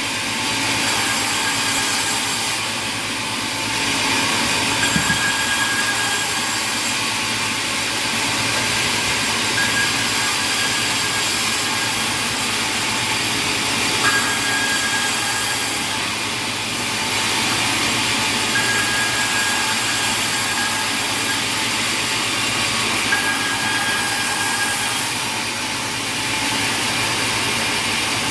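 Sawmill machinery running steadily with a loud, even din. A faint high whine comes and goes for a second or two at a time, about every four to five seconds.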